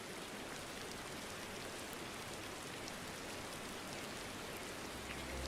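Steady rain, an even hiss with scattered faint drop ticks. About five seconds in, low sustained music tones begin under it.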